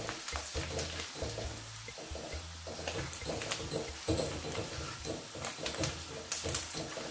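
Garlic, shallots, ginger and galangal sizzling in hot oil in a pan, with a spatula clicking and scraping against the pan as they are stirred. A low hum runs underneath, coming and going.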